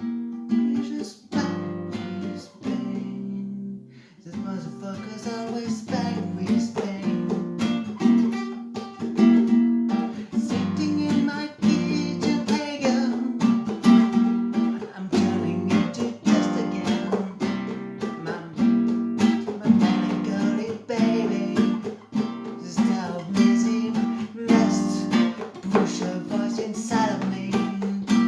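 Acoustic guitar strumming chords in a steady rhythm. The strokes are sparse for the first few seconds and grow busier from about four seconds in.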